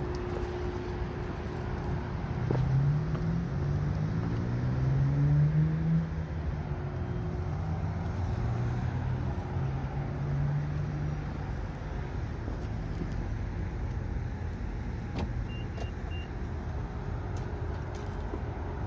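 A motor vehicle's engine speeds up and runs on over a steady low traffic rumble. About three-quarters through come three short high beeps.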